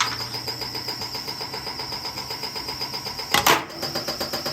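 LG washing machine running a spin, its drum knocking rapidly and evenly, about eight times a second, under a steady high whine. A loud bang or crash comes about three and a half seconds in.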